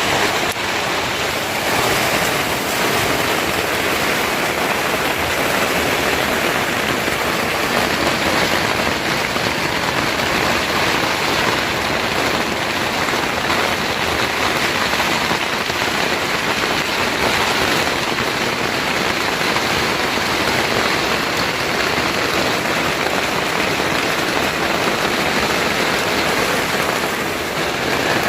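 Steady heavy rain falling, a loud, even hiss with no breaks.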